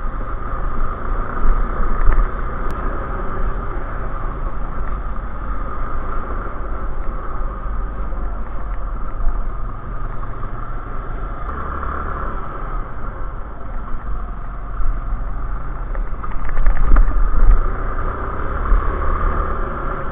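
Suzuki Djebel 200's single-cylinder four-stroke engine running steadily as the bike climbs a narrow mountain road, recorded from a camera on the bike, with a heavy low rumble. It grows louder for a couple of seconds about 16 seconds in.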